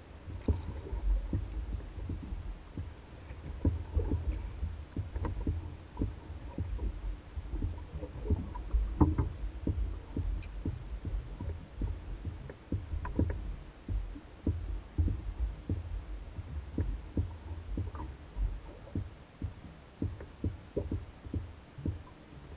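Small waves lapping and slapping against the hull of an Old Town Guide 119 canoe as it bobs on the lake: irregular soft knocks, one or two a second, over a steady low rumble.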